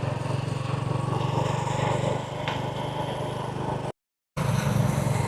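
A vehicle engine running steadily at an even speed. The sound cuts out completely for a moment about four seconds in, then resumes unchanged.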